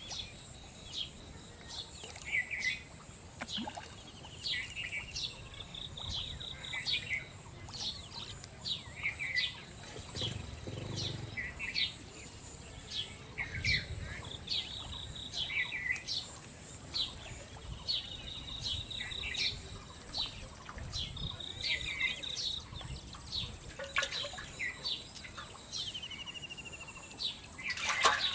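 Birds calling outdoors: short falling chirps repeated about once a second, with some held whistled notes, over a steady high-pitched hiss. A short, sharp, louder noise comes right at the end.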